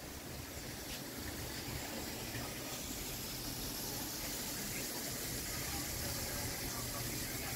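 Shrimp cooking on the stove: a steady sizzling and bubbling hiss over a faint low hum, growing slightly louder.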